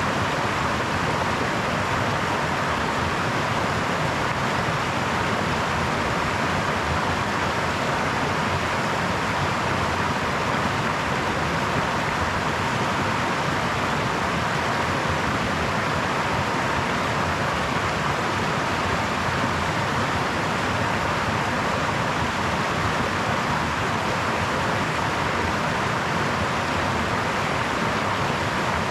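Brook water running steadily over stones, an even rushing hiss that never changes in level.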